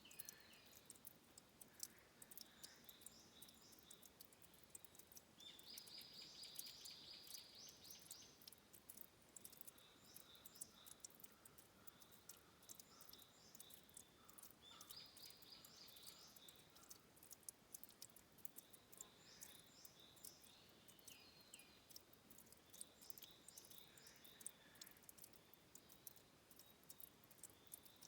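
Faint forest ambience at a stream's headwaters: small sharp ticks throughout, and twice a pulsed buzzy trill lasting a couple of seconds, once early and once just past the middle, with scattered high chirps between.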